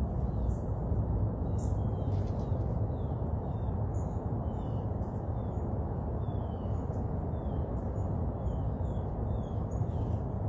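Small birds chirping in short, high, falling notes, about two a second, over a steady low rumble.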